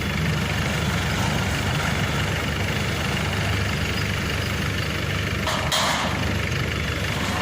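Diesel engine running steadily at a low idle-like speed, with a short hiss a little after halfway.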